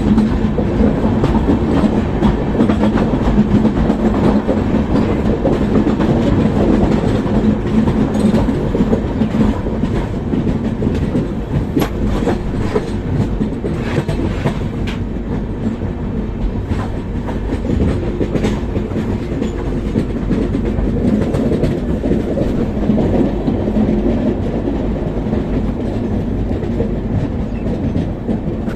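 Gitanjali Express passenger train running on the track: a steady rumble of the coaches with irregular clickety-clack of wheels over rail joints.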